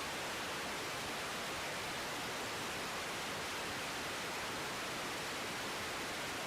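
Steady, even hiss of an air traffic control radio feed between transmissions, with no voice on the channel.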